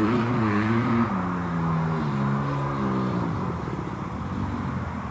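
Honda CRF150 dirt bike's single-cylinder four-stroke engine with a custom exhaust, its pitch wavering up and down with the throttle, then holding steady before fading out about three seconds in.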